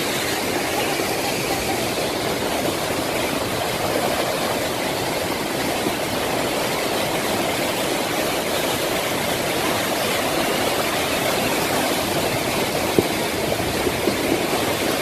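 Flash-flood water rushing steadily through the desert, a continuous even noise.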